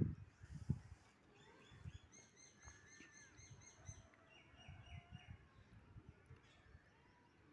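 A bird calling: a quick run of short, rapidly repeated high notes from about two seconds in, followed by a few lower repeated notes, over faint outdoor background. Low muffled thumps on the microphone in the first second are the loudest sound.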